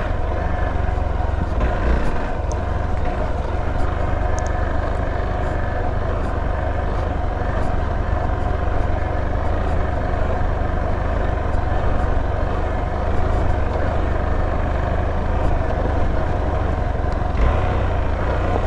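Hero XPulse motorcycle's single-cylinder engine running steadily under way on off-road terrain.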